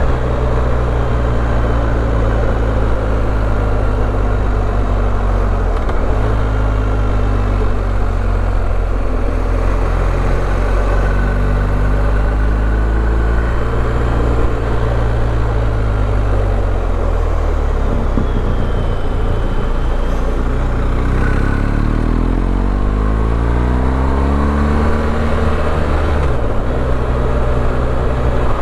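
BMW R1250GS boxer-twin engine running under way, its pitch stepping with gear changes about 6 and 17 seconds in, then climbing under acceleration and dropping with a shift near the end, over steady wind rush.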